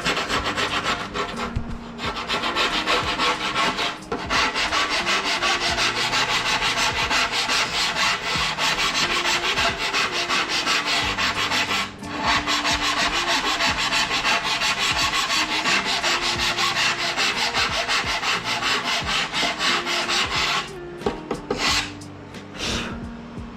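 A hand file rasping in rapid, even strokes over a foam deer taxidermy form, deepening the muscle lines and filing off the moulding seams. It stops briefly a few times, and the strokes turn short and broken near the end.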